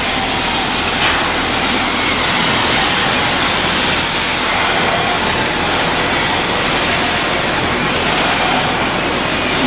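Steady, loud rushing noise of shipyard machinery at work, with faint high whines running through it.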